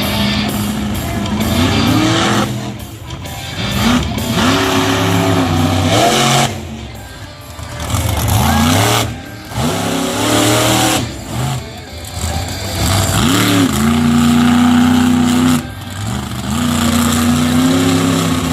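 Monster truck engine revving hard in repeated throttle bursts, its pitch climbing and falling again and again with brief lulls between, with music playing underneath.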